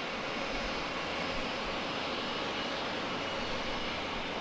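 Jet airliner engine noise, steady and even.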